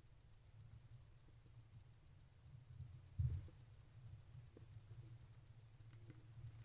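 Near silence in an owl nest box: a faint steady low hum with one dull thump about three seconds in and a few small knocks near the end.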